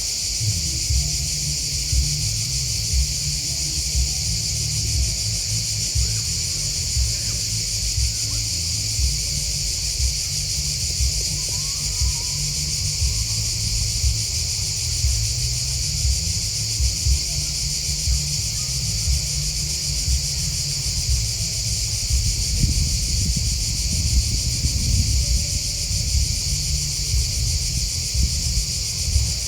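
A dense, steady chorus of chirping field insects (grasshoppers and crickets), a continuous high-pitched trill, with an uneven low rumble underneath.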